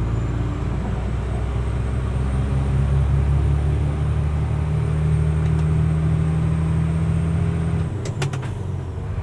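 Mercedes-Benz Unimog U500's six-cylinder turbo diesel pulling steadily, its note climbing a little and then holding, with a thin high turbo whistle over it. About eight seconds in the whistle stops, the engine note falls away and a few clicks sound.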